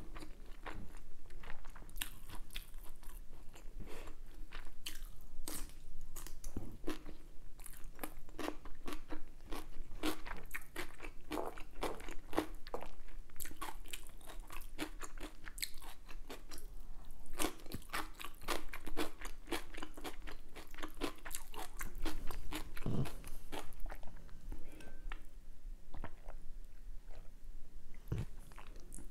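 Close-miked chewing and biting, a steady stream of short crunchy, wet mouth clicks as a person eats.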